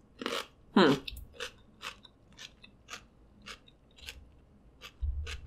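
Close-miked chewing of a mouthful of raw cucumber, a wet crunch about every half second that slowly gets quieter, with a brief hummed voice sound about a second in.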